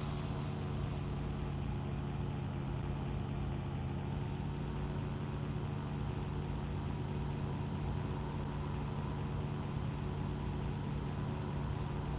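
Aircraft engines running steadily, a constant low hum with a hiss that fades over the first second or two.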